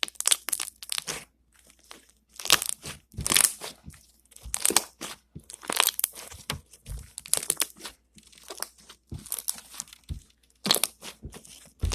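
Bead-filled slime being squeezed and stretched by hand, giving irregular crackly crunching and popping bursts.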